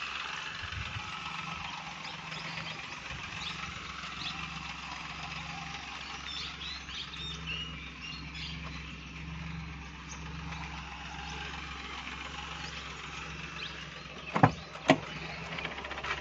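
Maruti Suzuki Alto 800's 796 cc three-cylinder petrol engine idling steadily. Two sharp clicks close together near the end.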